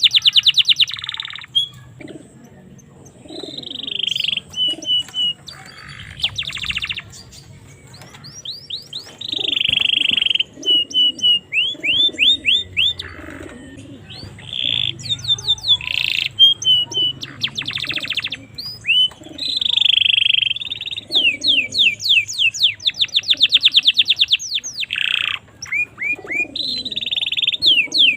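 Domestic canary singing a long, varied song of fast trills, runs of repeated rising chirps and buzzy rolls, broken by short pauses.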